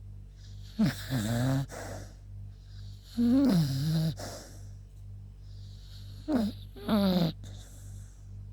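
Beagle snoring in its sleep: three drawn-out snores, each with a wavering pitch and about three seconds apart, the last one broken in two.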